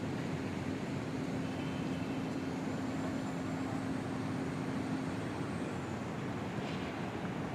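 City street traffic: a steady rumble of passing vehicles, with a steady low engine hum that stops about five seconds in.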